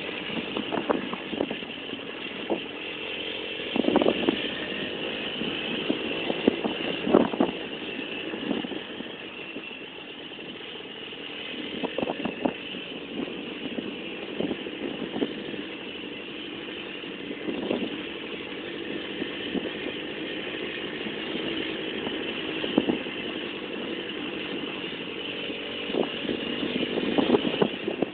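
Minsk motorcycle's small two-stroke single-cylinder engine running steadily, with occasional short louder bursts.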